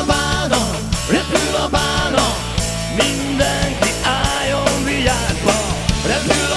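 A band playing an upbeat rock instrumental passage: a steady, fast drum beat and a bass line under a sliding lead melody, with no singing.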